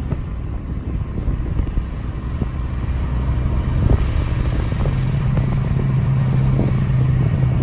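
Engine running steadily to drive the bucket truck's hydraulics while the upper boom is lowered into its cradle. A steady hum grows louder from about three seconds in, with a few faint knocks.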